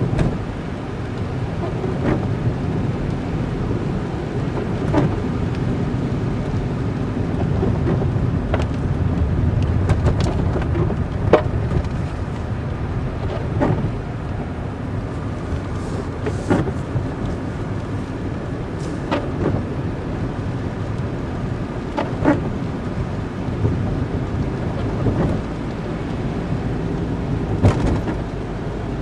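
A vehicle driving on a road, a steady low rumble of engine and road noise, with sharp clicks and knocks every few seconds.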